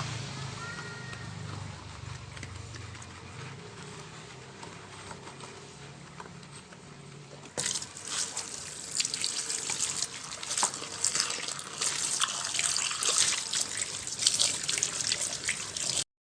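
Water from a tap running and splashing, as at a kitchen sink, starting suddenly about halfway in after a quieter low hum, then stopping abruptly just before the end.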